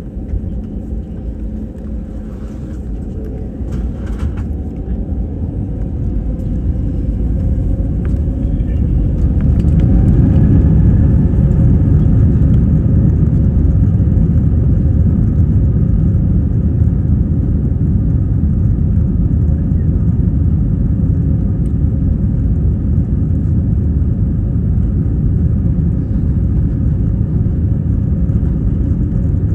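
Airbus A330-300 jet engines heard from inside the cabin during the takeoff run. They spool up over roughly the first ten seconds with a faint rising whine, then hold a steady, loud rumble at takeoff thrust.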